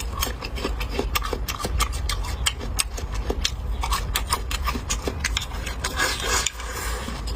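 Close-miked chewing of crunchy water chestnut: a dense, irregular run of crisp crunches.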